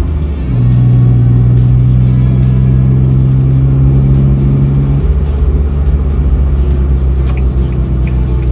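Suzuki Every kei van's three-cylinder 660 cc engine running through a Plusline high-style aftermarket muffler. About half a second in it is revved up and held at a steady higher speed, then drops back to idle about five seconds in.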